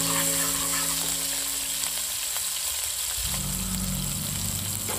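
Ginger, garlic and green chilli paste sizzling as it fries in hot oil in a metal pan, stirred with a spatula.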